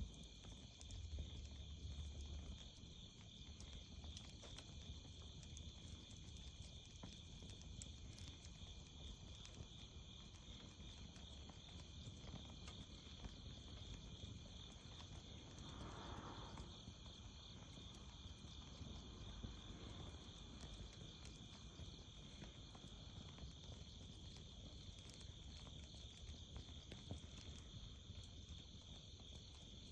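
Faint steady chorus of crickets and other insects trilling, with light scattered clicks and a brief soft rustle about halfway through.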